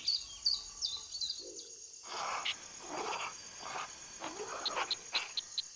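Faint wildlife ambience: short high bird chirps and a steady high insect drone, with a run of soft repeated animal calls about twice a second through the middle.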